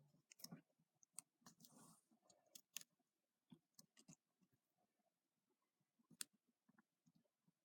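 Faint, scattered clicks and light rustling of a small piece of paper being handled and positioned on a paper clip, with a soft rustle about two seconds in.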